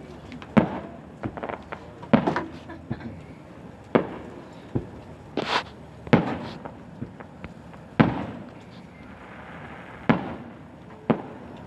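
Aerial fireworks going off: about a dozen sharp booms at irregular intervals, each trailing off in a short echo.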